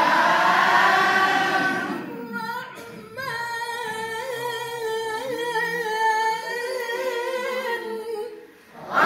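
Melodic Quranic-style recitation without instruments: a group of voices chants together, fades out, then a single voice carries an ornamented phrase with wavering turns of pitch. The group comes back in loudly at the very end.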